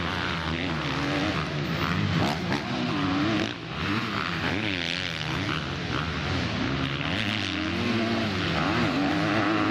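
Motocross bike engines revving, their pitch repeatedly rising and falling as the throttle is worked, with more than one bike heard at once.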